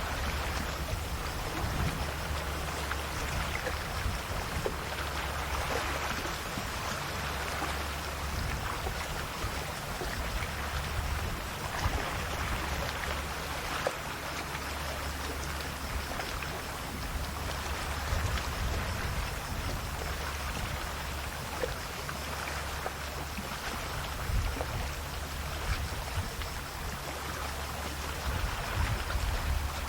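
Calm sea waves lapping and splashing at the shore, the splash swelling and fading every few seconds, over a steady low rumble.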